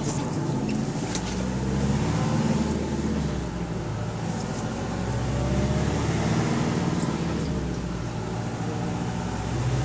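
Volvo double-decker bus's diesel engine running, heard on board; the engine note rises and falls twice. A few sharp clicks come in the first second. The uploader puts the bus down as having a high idle and a slight exhaust leak.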